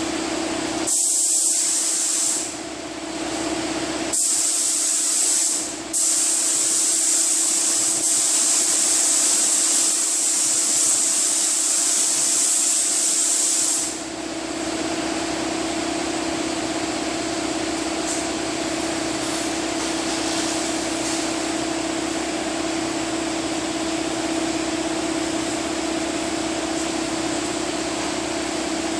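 Air-powered paint spray gun hissing in three bursts as clear coat is sprayed: a short burst about a second in, another about four seconds in, then a long one of about eight seconds. A steady hum runs underneath throughout.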